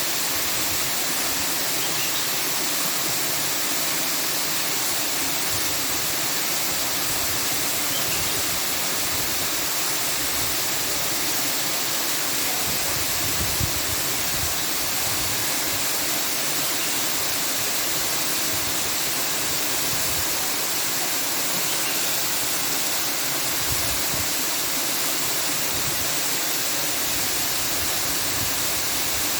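A steady, even rushing noise with no breaks, strongest in the higher pitches, like running water or hiss.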